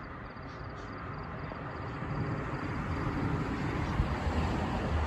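A motor vehicle's engine rumbles over a steady hiss of road noise. It grows gradually louder, rising most from about two seconds in, as the vehicle comes closer.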